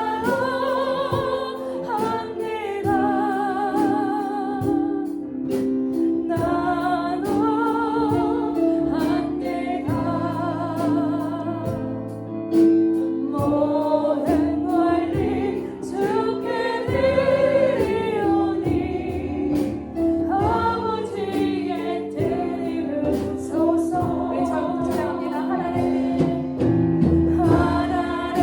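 Christian worship song in Chinese, sung by a choir of voices with vibrato over a steady instrumental accompaniment.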